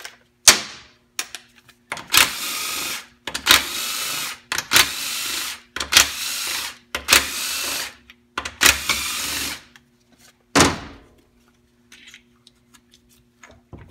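Power tool spinning bolts out of a 4L80E transmission case in six short runs of about a second each, with a sharp knock before them and another after.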